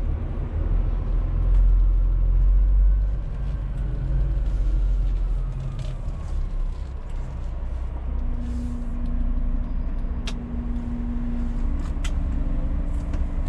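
Scania truck's diesel engine running with a heavy low rumble, easing off a little after about three seconds, with a few sharp clicks near the end.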